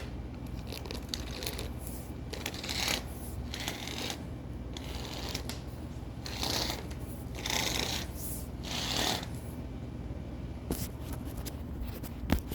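Inspection camera and its push cable scraping and rustling through a dust-collection exhaust duct in several short bursts, over a steady low hum, with a sharp click near the end.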